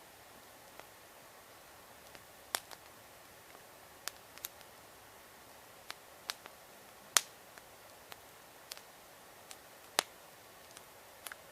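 Campfire wood crackling: irregular sharp pops and snaps over a faint steady hiss, with the loudest snaps about seven and ten seconds in.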